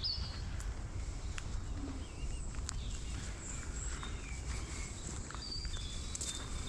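Outdoor morning ambience: scattered short bird chirps over a low steady rumble, with a few faint clicks.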